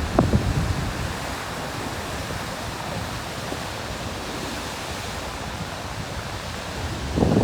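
Ocean waves breaking on a rocky shore at high tide: a steady churning wash of surf. A heavier wave crash swells up near the end.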